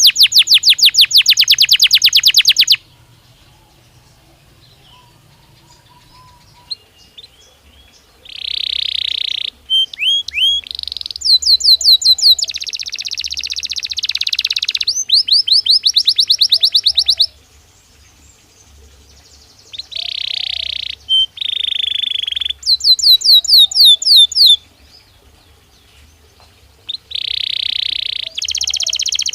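Domestic canary singing in fast trills of rapidly repeated high notes. The song comes in phrases of a few seconds each, broken by pauses of two to five seconds.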